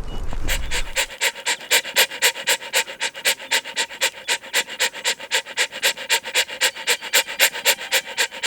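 Rapid, even panting, about four or five breaths a second, after a low rumble that stops about a second in.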